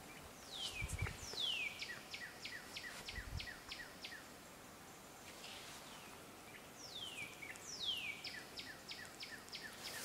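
A songbird sings the same phrase twice, about six seconds apart: two high notes sliding downward, then a quick run of about eight short notes. A couple of soft low thumps sound near the start.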